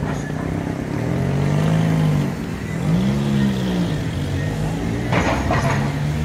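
Street traffic: a vehicle engine revving up and easing off twice, with a brief rush of noise about five seconds in.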